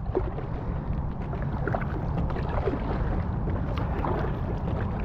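Steady wind rumble on the microphone, with light water sounds from an inflatable kayak being paddled along a river.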